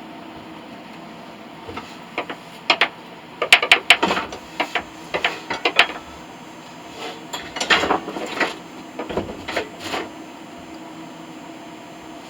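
Hard objects clinking and knocking as they are handled: a scattered run of sharp clicks and knocks, busiest in the middle, over a steady background hum.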